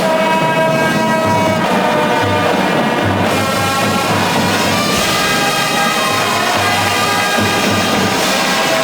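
Marching band brass playing held chords that change every second or two, over a repeated low bass note.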